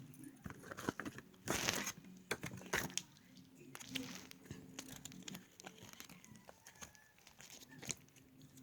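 Plastic packaging of a mini squishy crinkling and rustling in irregular bursts as it is handled and opened, with a louder rustle about a second and a half in.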